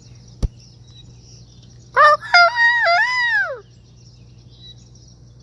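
A rooster crowing once, a full cock-a-doodle-doo of stepped notes ending in a long falling note, about two seconds in. A single sharp click comes just before it.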